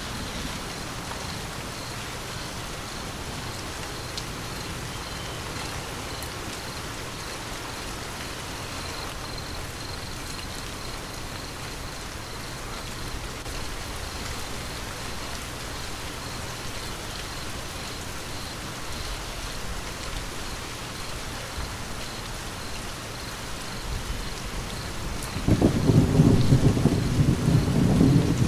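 Steady rain falling. Near the end, thunder breaks suddenly and rolls on as a loud, deep rumble.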